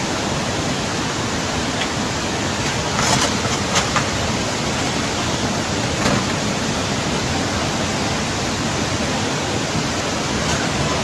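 Floodwater rushing steadily, a dense even noise like a waterfall, with a couple of faint knocks or splashes about three and four seconds in.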